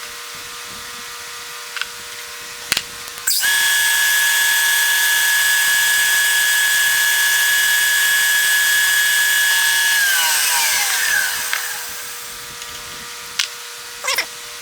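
A power-tool motor in a machine shop starts abruptly with a loud, high whine. It holds steady for about six seconds, then falls in pitch as it winds down, over a steady low machine hum and a few clicks.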